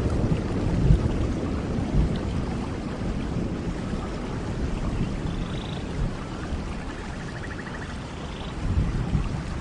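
Rainforest thunderstorm: steady rain falling, with low thunder rumbling as it dies away early on and swelling again briefly near the end.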